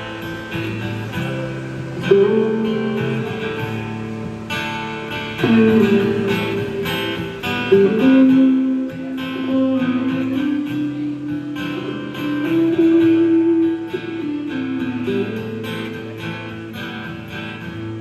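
Guitar playing a song's instrumental intro: chords under a held melody line that slides from note to note.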